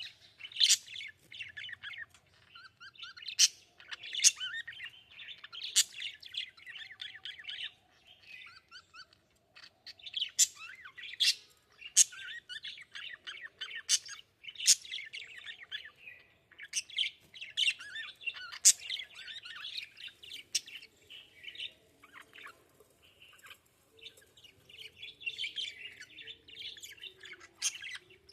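Budgerigars chattering: a fast, continuous warble of chirps and clicks punctuated by sharp, high-pitched chirps, with two short lulls.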